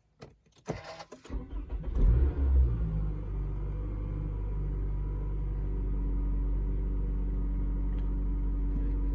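Toyota 2AZ 2.4-litre four-cylinder engine cranked by the starter and catching about a second in, flaring up briefly, then settling into a steady idle.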